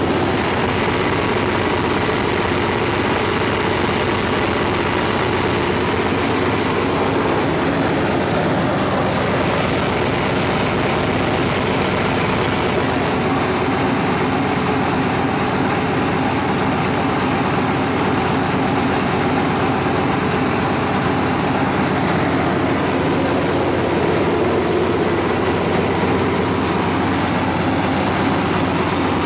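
1989 Suburban's Chevy 350 small-block V8, with throttle body injection, idling steadily.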